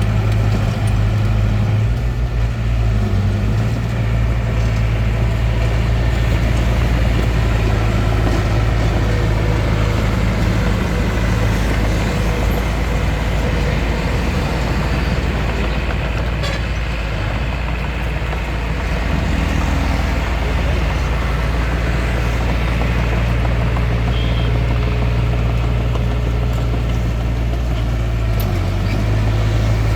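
A small bulldozer's diesel engine running steadily while working. Its low drone eases slightly a little past halfway, then picks up again.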